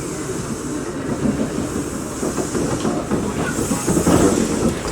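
Steam-hauled train running on the line, its wheels clattering over the rail joints with a hiss of steam. It gets louder near the end.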